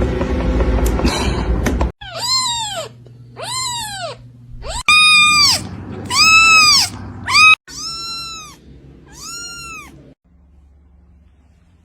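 A cat meowing six times in pairs, each meow rising and then falling in pitch, the middle pair loudest. It follows about two seconds of loud noisy sound, and a faint low hum fills the last couple of seconds.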